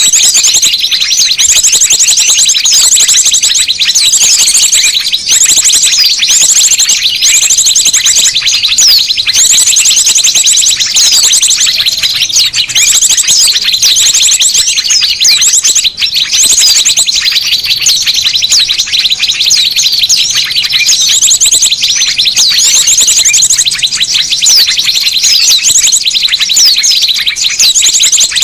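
A bird-lure recording of many small birds chirping and twittering noisily all at once, a dense, unbroken chorus. A high trill repeats every second or two. It is meant to draw small birds in.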